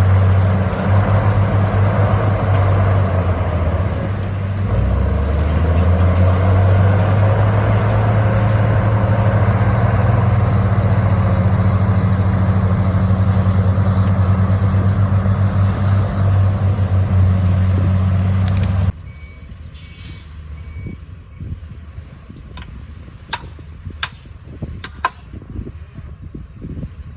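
Heavy diesel earthmoving machinery running steadily with a deep, even drone. About two-thirds of the way through it cuts off abruptly to a much quieter stretch with scattered sharp clanks.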